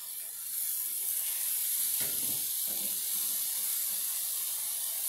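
Hamburger steaks sizzling steadily as they brown in a frying pan on medium heat; the sizzle grows louder about half a second in.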